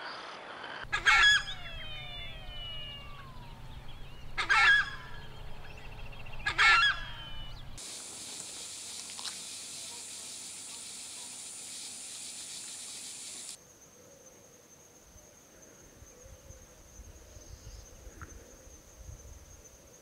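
Three loud calls from a large bird, a couple of seconds apart, each sweeping down in pitch over a low rumble. Then a steady high hiss, and after it a thin steady high tone.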